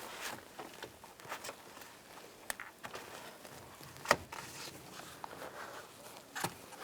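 Faint handling noises as a short length of brake line is pushed through a door's rubber wiring accordion boot, with scattered clicks and taps, the sharpest about four seconds in.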